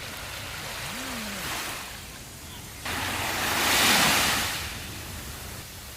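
Sea waves washing onto a sandy beach: a wave breaks suddenly about three seconds in, swells to its loudest a second later and fades back into the steady wash of surf.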